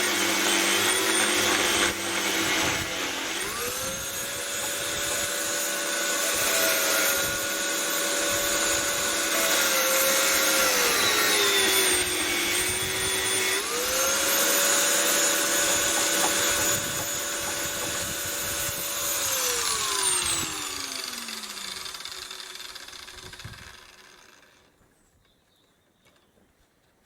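Electric power tool motor running at speed with a steady whine; about halfway through its pitch sags as if under load, then climbs back up. Near the end it is switched off and winds down with a falling whine.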